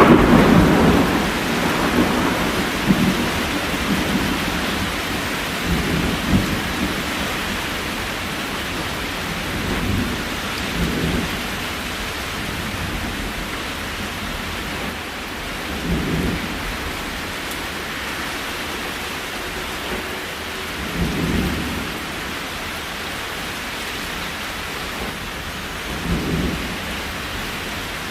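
Steady rain falling. A deep rumble fades over the first few seconds, and short low rumbles come back every five seconds or so.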